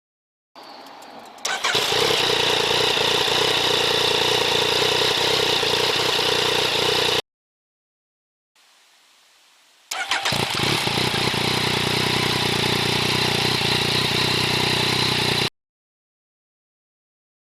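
Yamaha Tracer 900 GT's three-cylinder engine started twice in two separate takes: each time a brief starter crank, then the engine catches and settles into a steady idle for five or six seconds before cutting off.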